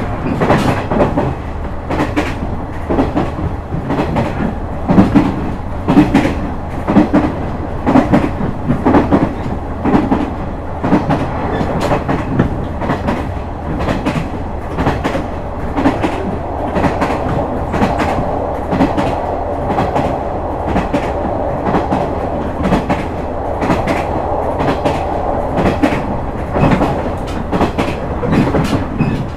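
KiHa 126 series diesel railcar running at speed, its wheels clattering rhythmically over rail joints over a steady rumble. About halfway through, a steady whine joins in.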